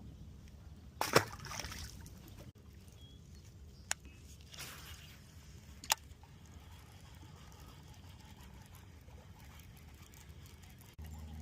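Water sloshing and splashing over a low steady rumble, with a few sharp knocks, the loudest about a second in.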